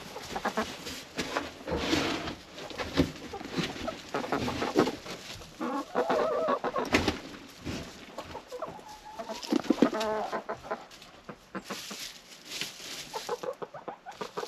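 Hens clucking and calling close by, with short pitched squawks about six and nine seconds in, over scratching and shuffling from the flock.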